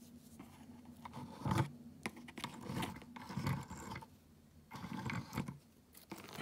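Small mechanical clicks and scrapes in a few irregular clusters, typical of a small die-cast model van being handled and turned over.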